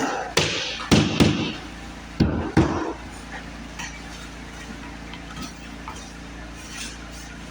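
Hard knocks and clinks from floor-installation work, about five in quick succession in the first three seconds, then a steady low hum.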